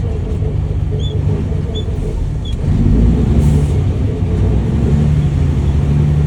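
Diesel dump truck engine running under way, heard from the cab. About two and a half seconds in it gets louder and the pitch rises as the truck accelerates.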